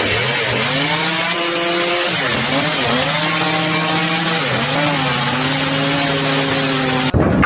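A power saw running at speed with a harsh hiss, its pitch dipping briefly and recovering three times, then cutting off suddenly near the end.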